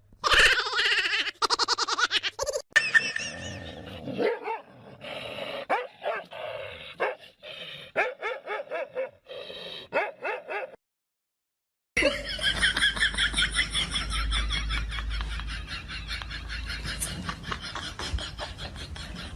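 Dogs barking, yipping and whining in short bursts, with a second of silence a little before halfway, after which a fast run of high-pitched yips and whines continues.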